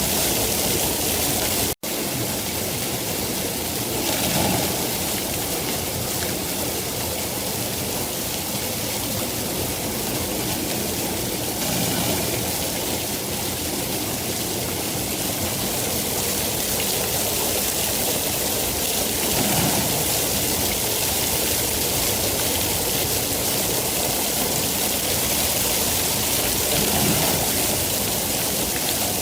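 Steady rain falling, a dense even hiss, broken by a split-second gap about two seconds in.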